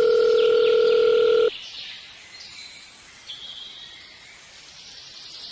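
A loud, steady, single-pitched tone like a telephone dial tone, which cuts off sharply about a second and a half in. Faint high bird chirps follow.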